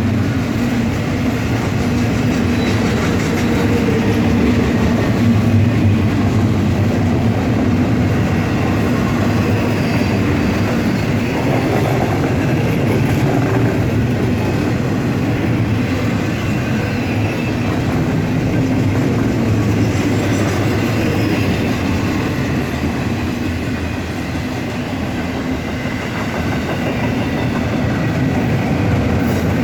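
BNSF intermodal freight train's cars rolling steadily past on the rails, with wheel clatter.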